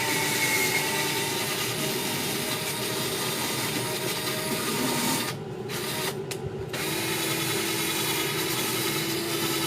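A small handheld power tool running steadily. It stops briefly twice about halfway through, then runs on with a steady hum.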